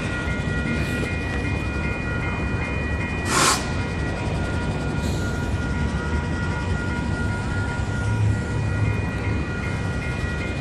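Level-crossing warning bells ringing without pause over a steady low rumble, the signal that stays on while a train stands across the crossing. A short, loud hiss cuts in about three and a half seconds in.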